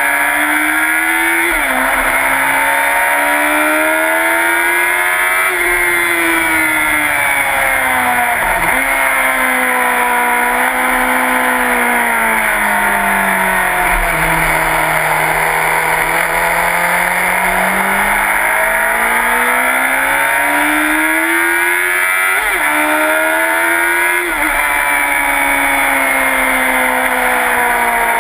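Sport motorcycle engine at track speed, its pitch climbing hard and then breaking sharply at each gear change, several times. About midway it falls to a low, slow stretch before rising again, with steady wind rush over the bike-mounted microphone.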